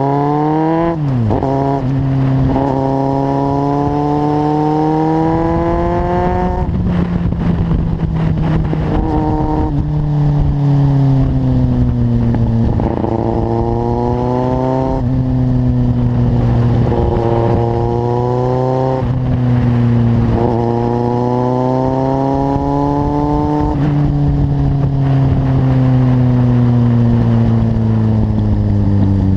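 Kawasaki Z750's inline-four engine through a carbon LeoVince aftermarket exhaust, pulling hard: the pitch climbs and drops sharply several times, then slowly falls over the last few seconds.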